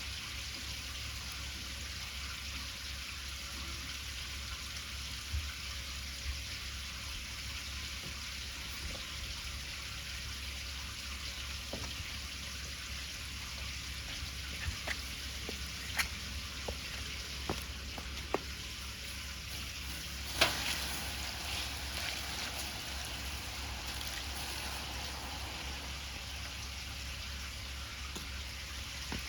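Wood bonfire burning: a steady hiss with scattered sharp crackles and pops, the loudest pop about twenty seconds in.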